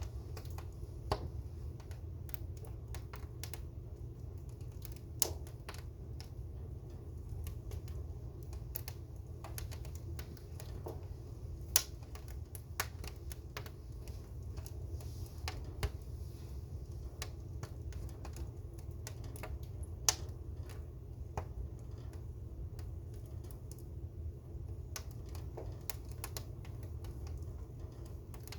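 A fire crackling: irregular sharp pops and snaps, a handful of them much louder than the rest, over a steady low rumble.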